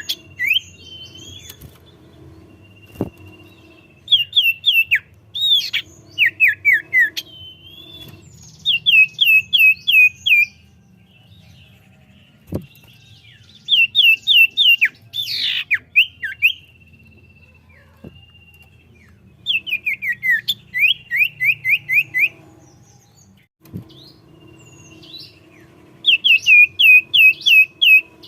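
Common iora (cipoh) in full song: repeated runs of five or six quick, falling whistled notes, a few seconds apart. Between the runs come long, steady whistles, and a few faint clicks sound here and there.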